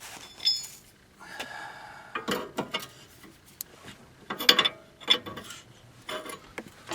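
Hand wrench tightening a nut on a car's tie rod: a series of short, irregular metallic clicks and clanks.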